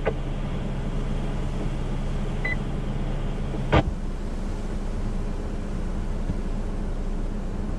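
Radio scanner audio between transmissions: a steady hiss with a low hum that stops at a sharp click about four seconds in. A single brief high beep sounds about two and a half seconds in.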